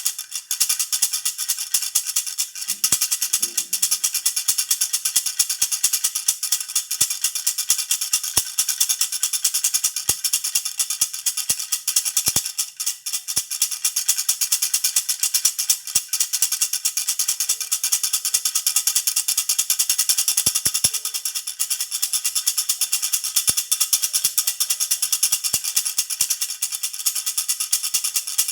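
A jhunjhuna (baby rattle) being shaken continuously in a fast, even rhythm, making a bright, high-pitched rattling jingle.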